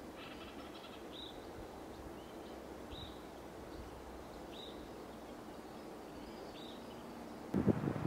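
A small bird gives a short, high, downward chip call about every two seconds over faint outdoor background noise. Near the end this breaks off abruptly into loud rustling and wind noise on the microphone.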